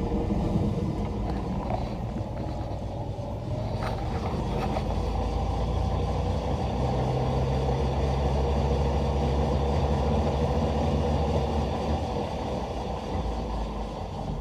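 AC induction motor of an electric BMW E46 conversion running steadily on its inverter, turning the drivetrain and spinning the wheels through a gearbox with no oil in it. The sound eases off toward the end.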